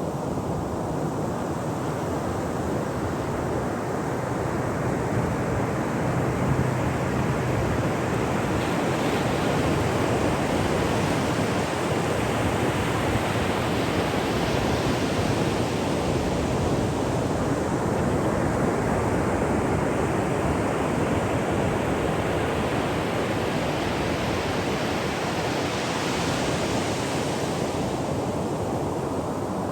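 Ocean surf washing up on a shore in a continuous rush, its hiss swelling as waves break about halfway through and again, more strongly, near the end.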